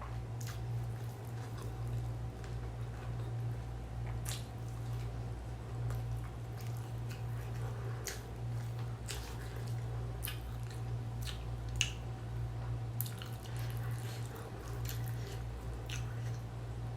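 Mukbang eating sounds: a person chewing mixed rice, with wet mouth sounds and many short sharp smacks and clicks, over a steady low hum.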